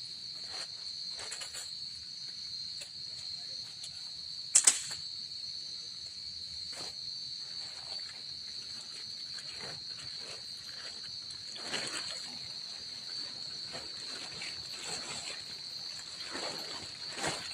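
Insects droning steadily on one high pitch, a forest insect chorus. A single sharp knock or clatter comes about four and a half seconds in, and a few short rustling swishes follow later.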